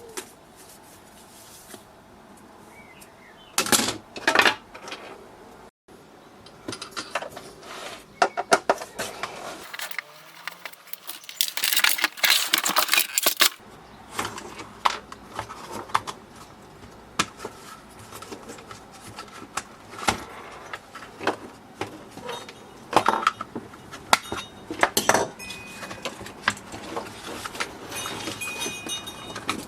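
Parts of a Nespresso coffee machine being handled during disassembly: irregular clicks, clinks and small rattles of parts and tools, in clusters with short quiet gaps.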